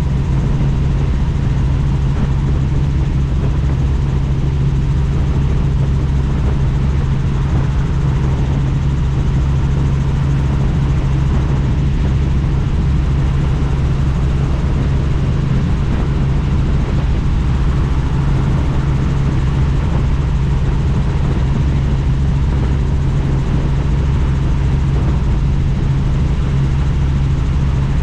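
Helicopter in flight, its rotor and engine noise running loud and steady with a deep hum.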